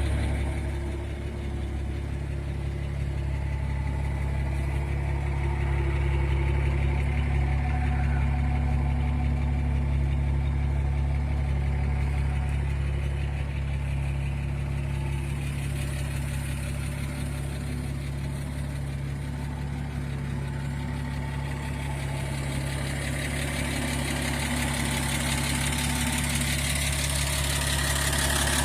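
1951 International I-130 truck's engine idling steadily.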